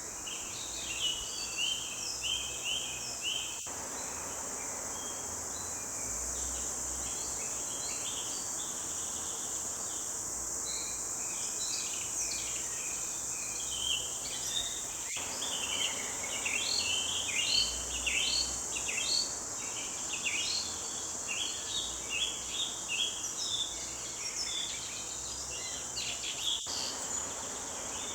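Several forest birds singing in short chirps and trills over a steady, high-pitched insect drone.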